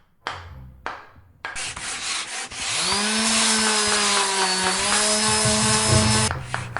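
Wood being sanded, a loud dense rasping after a few sharp knocks, with a steady hum joining about three seconds in.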